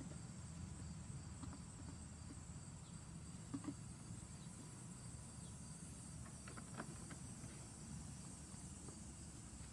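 Faint, steady high-pitched insect chorus over low background rumble, with a few faint clicks.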